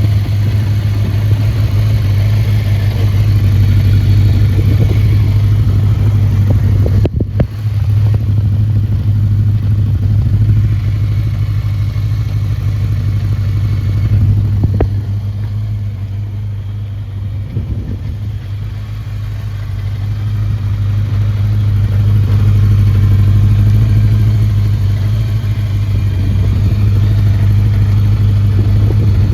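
Suzuki GSX400F's 398 cc air-cooled inline-four running with an aftermarket exhaust, holding a steady speed, with a brief dip about seven seconds in and a softer stretch past the middle.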